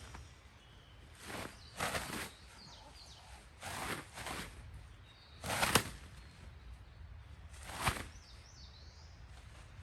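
Six short scuffing noises at uneven intervals, over faint chirping of small birds.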